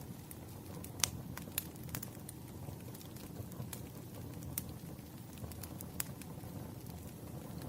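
Bonfire crackling: irregular sharp pops and snaps over a steady low rumble of burning, the loudest snap about a second in.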